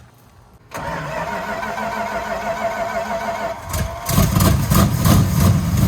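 A 1969 Plymouth Road Runner's V8 being started: the starter cranks it for about three seconds, then the engine fires about four seconds in and keeps running, much louder.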